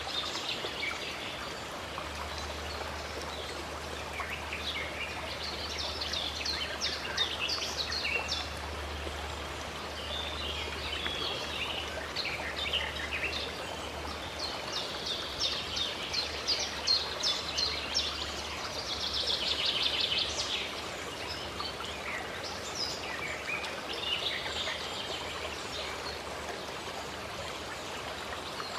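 Running stream water with birds singing over it in repeated chirping phrases.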